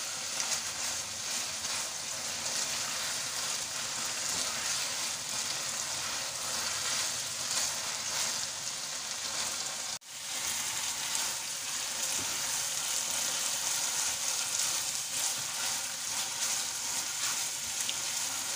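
Minced chicken sizzling steadily in hot oil in a wok while being stirred with a spatula: the keema is being bhuna (fried down) so its raw smell cooks off. The sizzle breaks off for an instant about halfway, then carries on.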